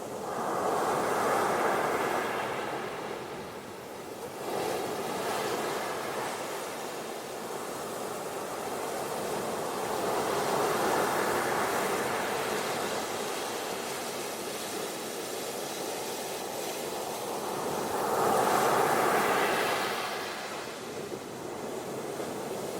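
Ocean surf on a beach: waves breaking and washing in, swelling and fading in about four slow surges, the loudest near the end.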